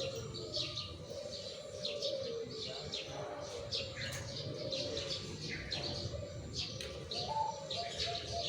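Zebra doves (perkutut) cooing in long wavering phrases, over repeated high chirps from other birds.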